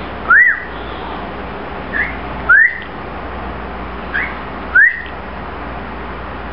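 Cockatiel giving repeated whistled contact calls: three loud short notes that rise and fall, about two seconds apart, each with a fainter short note just before it.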